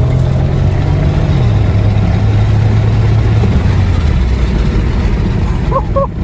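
Chevrolet Monte Carlo's LS4 5.3-litre V8 under full throttle in a rolling launch from about 20 mph, pulling hard. Its pitch steps down about a second and a half in as the automatic gearbox upshifts, then it keeps pulling and eases off about four seconds in.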